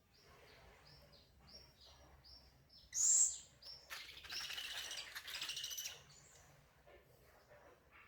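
Baby owl calling: a run of short, high chirps about two a second, a loud shrill call about three seconds in, then a harsh, rasping call lasting about two seconds.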